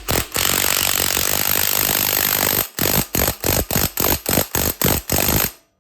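Impact wrench tightening the flywheel gland nut on an air-cooled VW Beetle engine. It runs steadily for about two and a half seconds, then is triggered in about ten short bursts before stopping.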